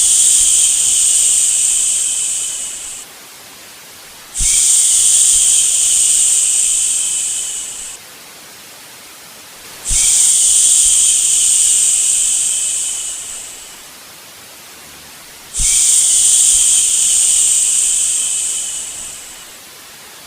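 Long, repeated "shhh" shushing for lulling a baby to sleep, each shush starting suddenly and trailing off over about three seconds, about every five and a half seconds. A steady, quieter white-noise hiss runs beneath.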